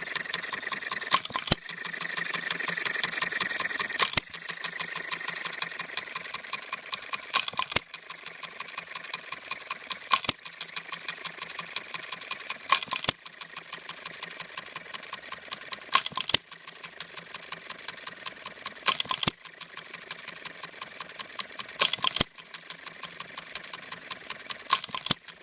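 Scale New Holland hit-and-miss engine with make-break ignition running: it fires with a sharp bang roughly every three seconds and coasts between firings with a fast, light clatter.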